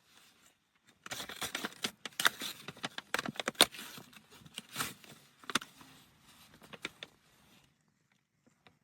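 Irregular clicking and rustling, dense and uneven, starting about a second in and stopping about a second before the end.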